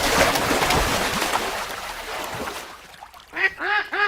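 Water splashing and churning loudly, fading out after about two and a half seconds. Near the end come three short calls, each rising and falling in pitch.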